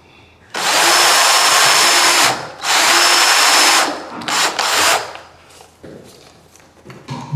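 Power drill fitted with a 7 mm square drill bit boring a square hole into wood, the motor running with a steady whine in two long bursts of about a second and a half each, then a few short bursts.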